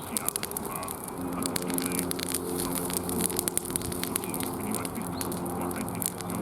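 Wood fire crackling, with many quick sharp pops. A steady low hum runs underneath from about a second in.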